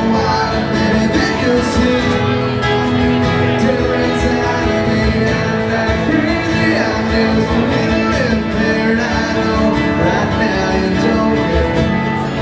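Live country band playing loudly, with guitars and some singing.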